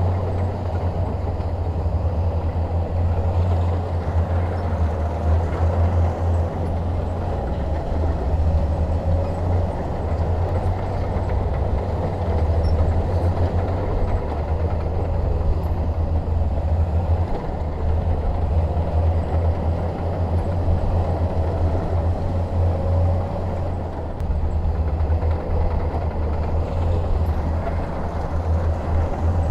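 Shantui DH17 bulldozer's diesel engine running steadily with a deep low drone and rumble.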